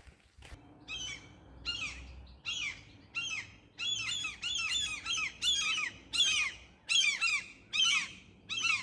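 A bird calling in a long run of short, falling notes that start about a second in and come closer together and louder as it goes on, about two a second near the end.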